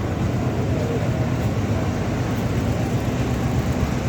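Class M6 diesel-electric locomotive's engine running with a steady low rumble as it hauls the express train out of the station.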